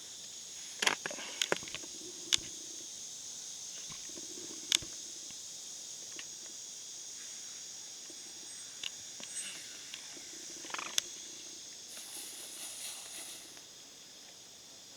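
Steady high-pitched chirring of crickets, with a few sharp clicks scattered through it.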